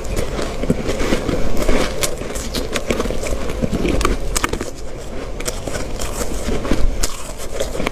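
Ice being chewed close to the microphone: a dense, irregular run of crunches and sharp cracks.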